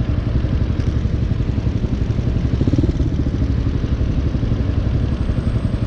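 Hawk 250cc motorcycle's single-cylinder engine idling steadily, a fast even low pulsing while stopped at a light.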